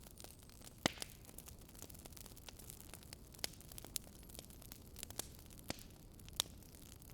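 Wood fire crackling: irregular sharp pops, a few of them louder, over a low steady hiss.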